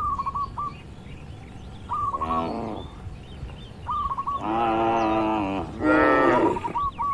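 Cattle mooing three times, one short moo and then two longer ones back to back, while a bird repeats a quick phrase of short chirps several times between the moos.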